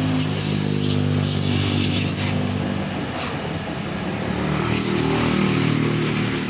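A motor running with a steady hum that shifts up in pitch about five seconds in, under a hiss of compressed air from an air blow gun drying parts. The hiss stops a little after two seconds in and starts again a little before five seconds.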